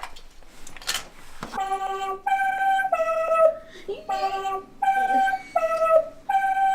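A simple tune of held notes, a higher note then a slightly lower one, repeated over and over with short gaps, starting about a second and a half in.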